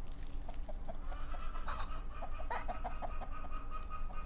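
Chickens clucking: a quick run of short clucks, about five or six a second, over a low hum.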